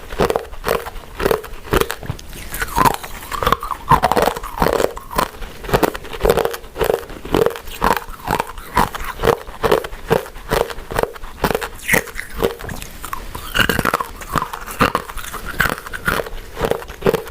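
A person chewing soft, sticky glutinous rice desserts (rice cakes and mochi) in a steady rhythm of about two chews a second.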